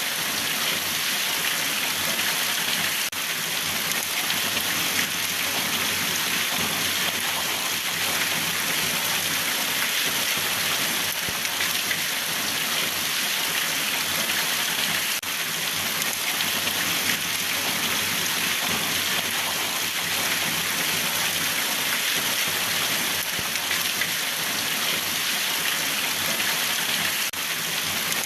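Steady rain falling and pattering on a surface, an even hiss with scattered drops.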